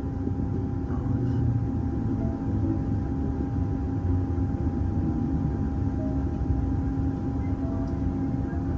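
Steady interior running noise of an electric suburban train: a low rumble from the wheels on the track with a constant hum from the train's electrical equipment.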